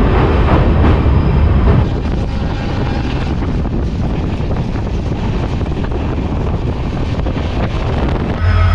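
Passenger train running at speed, heard from an open coach doorway: wheels and rails rumbling, with wind buffeting the microphone. It is louder for about the first two seconds, while the coach crosses a steel truss bridge. Right at the end it gives way to a steadier low hum.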